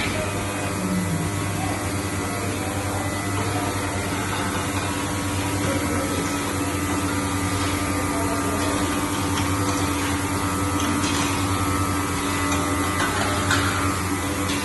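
Running machinery giving a steady, even hum with a few constant tones underneath and a faint hiss.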